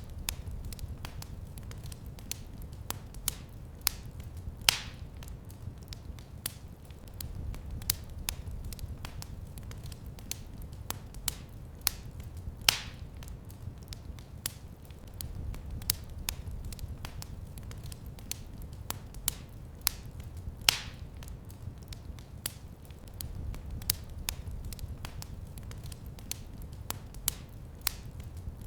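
Wood fire crackling in a fireplace: a steady low rumble with frequent sharp pops and snaps, and a louder, longer snap about every eight seconds.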